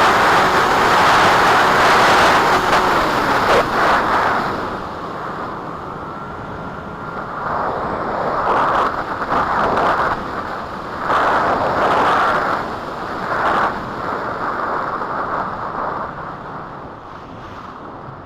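Strong wind buffeting the microphone: loud for the first four seconds, then easing, with several gusts swelling and dropping back before it dies down near the end.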